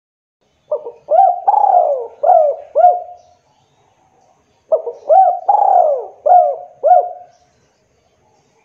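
Spotted dove (tekukur) cooing: two calls about four seconds apart, each a run of about five coos that rise and fall in pitch.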